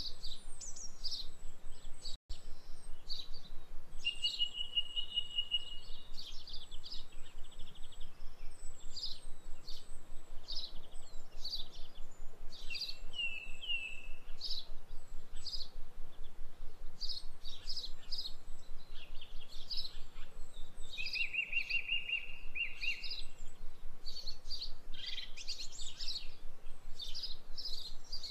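Birds chirping and calling: many short high chirps, with a few held trills among them.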